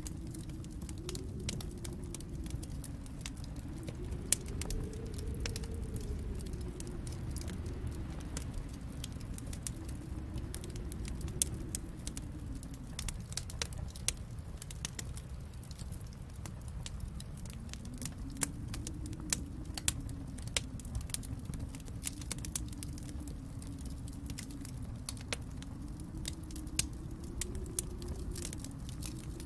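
Wood fire in a fireplace crackling and popping with irregular sharp snaps, over a steady low rumble that swells and fades every few seconds.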